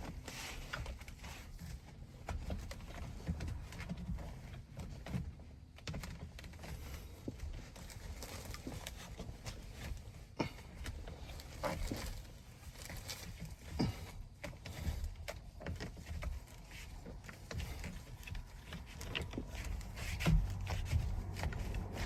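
Intermittent rustling, rubbing and light knocks of hands working a soft cover onto a car's steering wheel.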